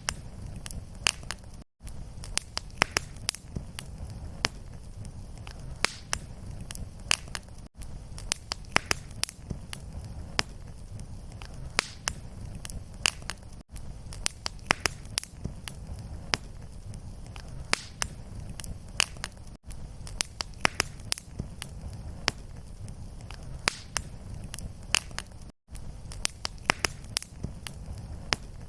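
Fireplace fire crackling and popping over a steady low rumble of flames. The sound drops out briefly about every six seconds, the seams of a looped recording.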